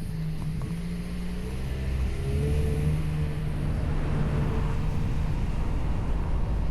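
An engine running steadily under load, its pitch rising slightly about two seconds in, with wind noise.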